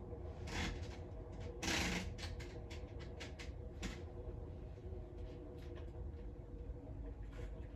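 Muffled low rumble of an electric train running along an elevated viaduct, heard through window glass. A scattering of sharp clicks and knocks falls in the first half, the loudest a short noisy burst about two seconds in.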